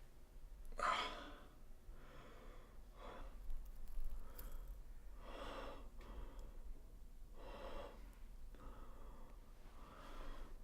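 A person breathing hard and unevenly, with audible gasping breaths about once a second.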